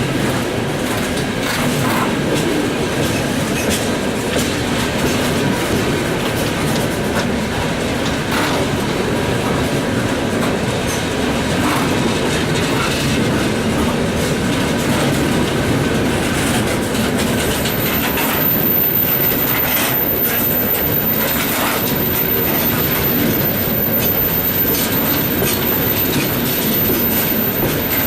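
Freight train running, its wheels clacking irregularly over rail joints above a steady rumble.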